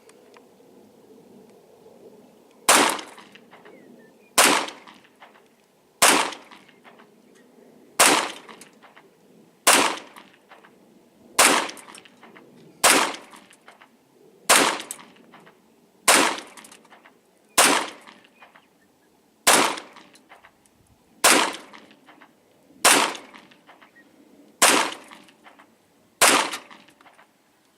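9mm pistol fired fifteen times in slow, steady succession, about one shot every one and a half to two seconds, each shot trailing off in a short echo.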